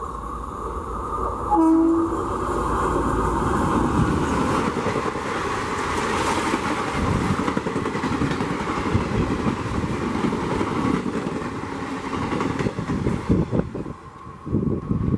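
Passenger train behind a WAP4 electric locomotive passing at high speed: a brief horn blast about two seconds in, then the rush and wheel clatter of the coaches going by, which falls away near the end.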